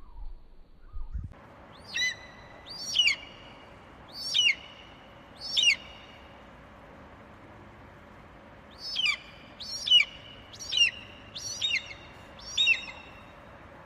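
A bird calling in short, sharp repeated notes, four calls and then after a pause five more, over a steady background hiss.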